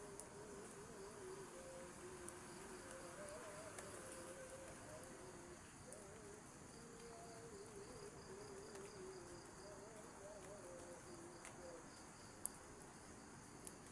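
Faint chirring of crickets and other forest insects, steady and pulsing, over low wavering tones. There is one sharp tick near the end.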